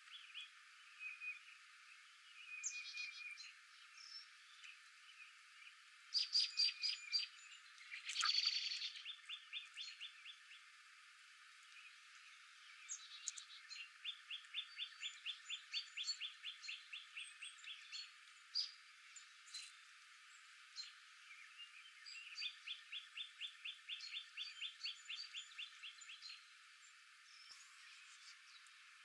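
Wild birds calling and singing: bursts of quick chips, and two long trills of rapidly repeated notes, one in the middle and one near the end, over a steady outdoor hiss.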